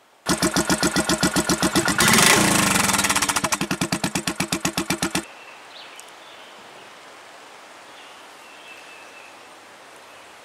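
Royal Enfield Classic 500's single-cylinder four-stroke engine idling with an even, loud beat, given a quick throttle blip about two seconds in, then settling back and cutting off suddenly after about five seconds.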